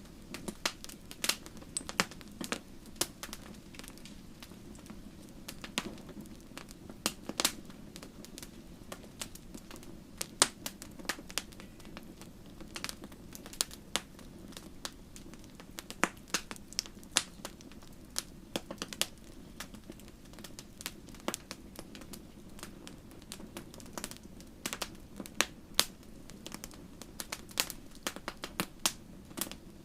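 Wood fire crackling: irregular sharp pops and snaps, some louder, over a soft steady low rush of flame.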